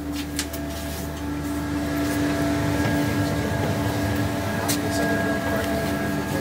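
Passenger train running at the station: a steady hum with a few held tones, its low rumble growing louder about two seconds in. Two sharp clicks stand out over it.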